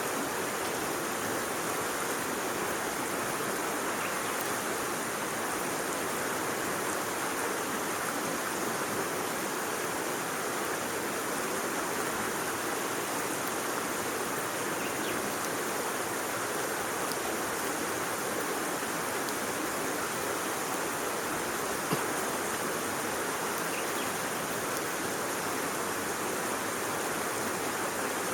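Steady rushing noise of running water, with a few faint ticks.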